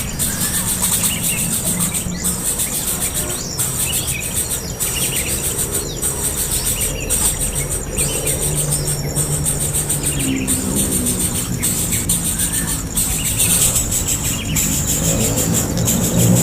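Short, scattered bird chirps over a steady, high insect buzz that pulses with regular short breaks, with a low hum underneath.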